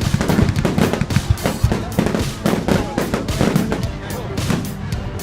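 Fireworks display: many bangs and crackles in quick, overlapping succession, with music and voices underneath.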